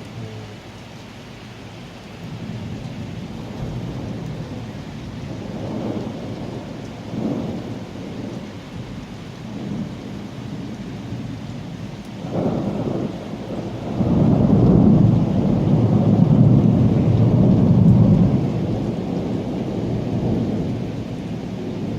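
Thunder rolling and rumbling over steady rain, in several swells; the loudest, longest roll comes about two-thirds of the way through and then slowly dies away.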